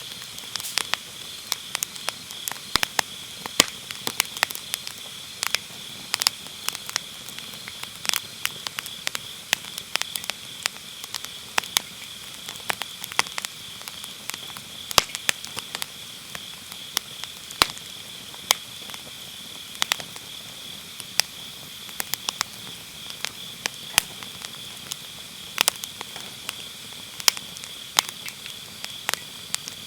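Firewood burning in a round fire pit, crackling and popping in irregular sharp snaps. Behind it runs a steady high trill of autumn grass insects.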